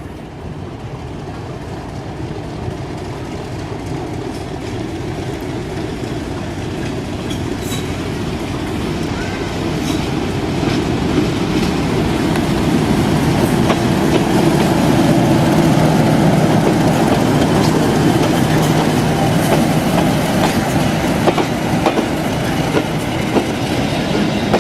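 Diesel train running. It grows louder over the first half and then holds steady, with a constant engine drone and scattered clicks from the wheels on the rails.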